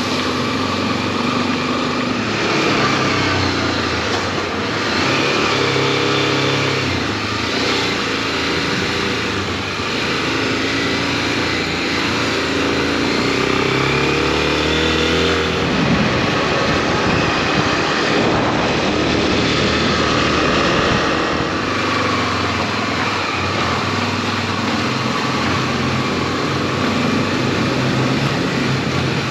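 Honda XRE300 single-cylinder motorcycle engine running while riding, its pitch stepping up and down with throttle and gear changes, over steady wind rush.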